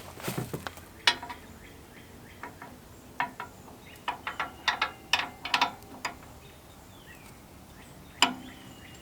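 Hand tools clicking and clinking on metal as bolts are tightened down with a wrench and breaker bar: scattered sharp clicks, a quick run of them about four to six seconds in, and a louder knock near the end.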